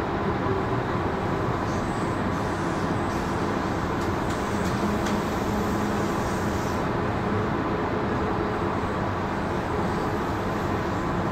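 Sydney Trains Tangara electric train running, heard from inside the rear guard's cab: a steady rumble of wheels on rails and running gear at an even level.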